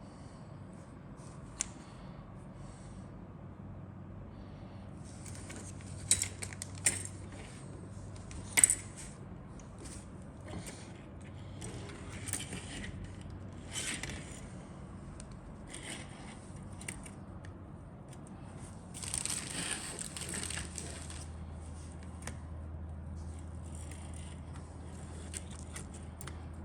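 Plastic model kit parts and their packaging being handled: sharp clicks and taps now and then, with a longer crinkling rustle about two-thirds of the way through.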